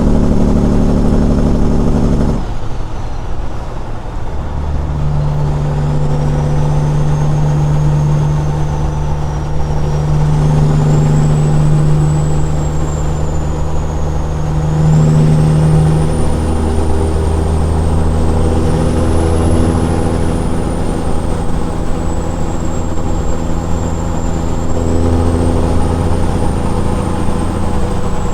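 Caterpillar 6NZ inline-six diesel in a Peterbilt 379, running loud through straight pipes under load. The engine note drops off abruptly about two seconds in, then pulls strongly again a couple of seconds later and holds a fairly steady pitch. A thin high whistle wavers up and down in pitch over it.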